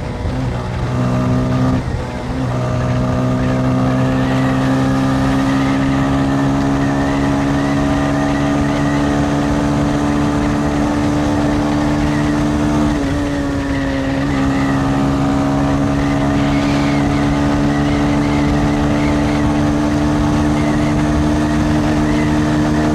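Motorcycle engine pulling under steady throttle while riding, its pitch creeping slowly upward, with short dips in pitch about two seconds in and again about halfway through, as the gears change.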